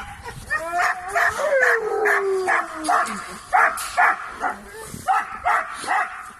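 Dogs barking in short repeated barks, with one long, falling howl-like whine about one to three seconds in.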